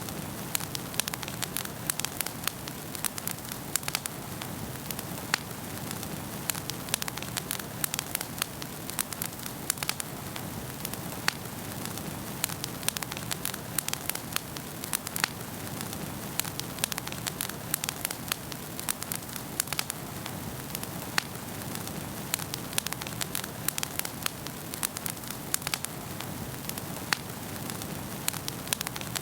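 Wood fire burning in a fireplace: a steady hiss with many sharp, irregular crackles and pops, several a second.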